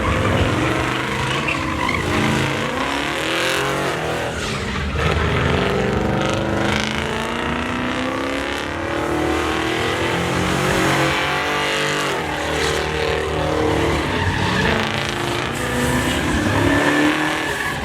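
Pickup truck doing a burnout: the engine is held at high revs, its pitch rising and falling, while the spinning rear tyres squeal and scrub on the pavement.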